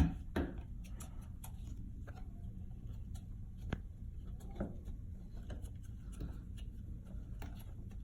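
Scattered light clicks and knocks of a plastic shower-head mount being handled and twisted clockwise onto the shower pipe, the sharpest click right at the start.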